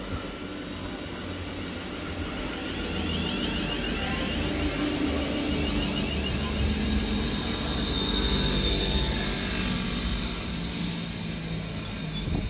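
London Northwestern Railway electric multiple unit pulling into the platform and slowing to a stop. The rumble of wheels and motors grows louder as it draws alongside, with gliding whines and then a high steady squeal about two-thirds of the way through. A short hiss comes near the end.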